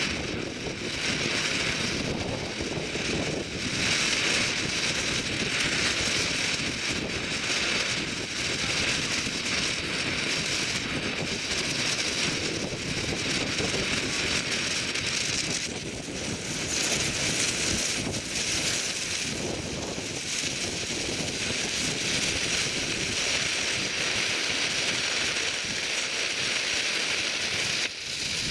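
Hybrid rocket engine firing on a test stand: a steady rushing, crackling noise that holds level without a break.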